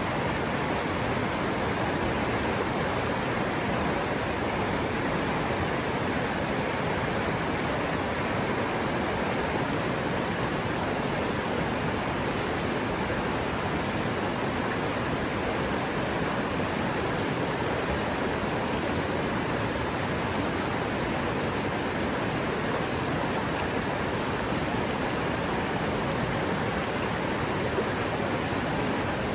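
River water running, a steady unbroken rush.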